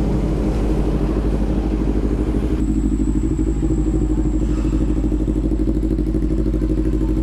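CFMoto 400NK's parallel-twin engine running at a steady, low speed through an aftermarket SC Project replica exhaust, with an even low pulsing and no revving. The hissy background noise above it drops away suddenly about two and a half seconds in.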